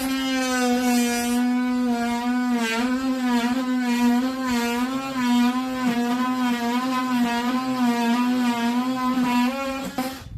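Oscillating multi-tool buzzing steadily as it cuts old glazing putty out of a steel window frame. The pitch wavers slightly with the load, and it stops abruptly near the end.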